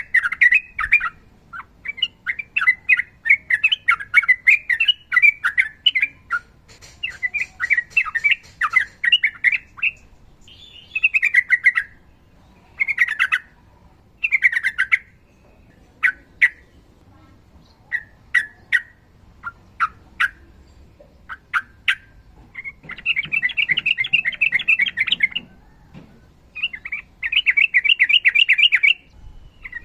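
Yellow-vented bulbul singing: bursts of quick, bubbly chattering phrases and short single calls, with long rapid trills in the last few seconds.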